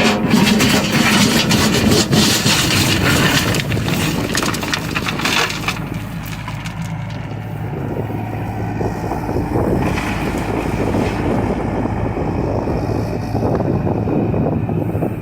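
John Deere excavator's diesel engine running under load while it crushes and splinters the wooden structure of a house being demolished: dense cracking and crunching of wood for about the first six seconds, then mostly the steady engine with lighter crackling.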